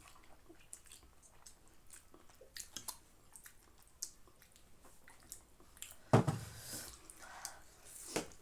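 People chewing and slurping spicy instant noodles close to the microphone, with scattered small wet smacks and clicks. A louder, sudden noisy sound comes about six seconds in, and another shorter one near the end.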